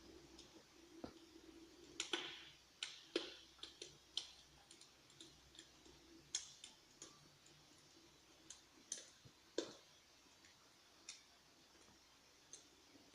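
Electric flame-effect fireplace giving off sparse, irregular sharp crackles and clicks like burning logs, over a faint steady hum that fades out about halfway through.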